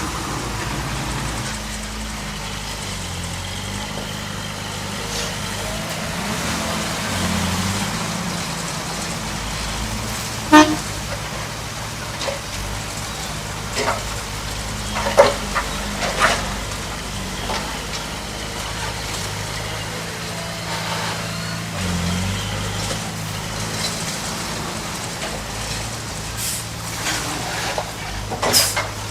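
Heavy diesel engine of an earth-moving machine running steadily, with a few sharp metallic knocks over it.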